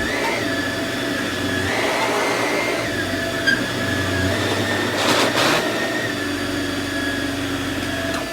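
Samsung CycloneForce upright vacuum running over carpet: a steady motor whine that shifts slightly in pitch as it is pushed, with a sharp tick about three and a half seconds in and a brief rush of noise around five seconds in.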